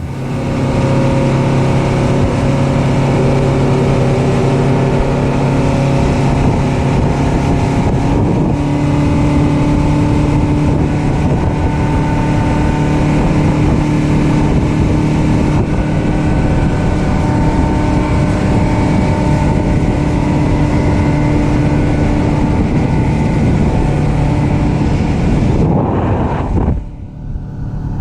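Yamaha outboard motor running steadily under way, with wind noise on the microphone. The engine note rises slightly about eight seconds in, and the sound drops away briefly near the end.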